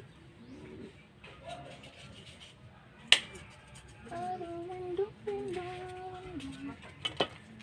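A sharp snap about three seconds in and two quick clicks near the end, with a held, pitched tone in between.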